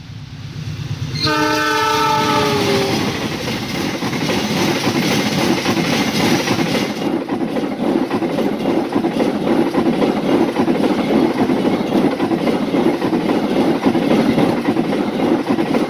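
Diesel locomotive horn sounding once for about a second and a half, then a passenger train of steel coaches passing close by at speed, its wheels clattering loudly over the rails until the last coach has gone.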